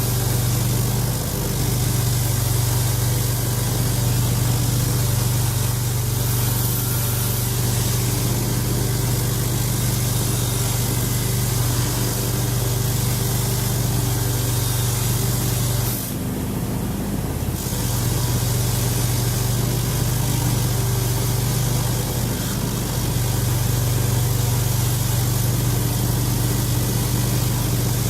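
Power tool spinning an abrasive wheel against the aluminium winch housing to strip the powder coat: a steady motor hum under a hiss of grinding. It stops for a second or two about 16 seconds in, then runs again.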